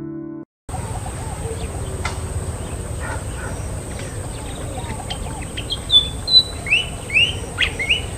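Piano music cuts off about half a second in. Outdoor ambience with a steady low rumble and birds chirping follows, with a run of louder, short rising-and-falling calls in the last few seconds.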